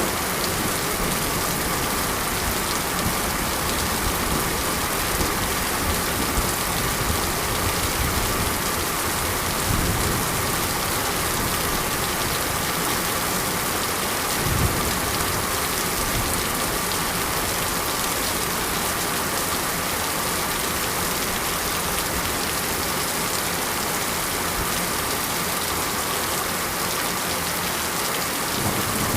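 Steady, heavy rain falling on surfaces, an even dense hiss, with a couple of brief low thuds about ten and fifteen seconds in.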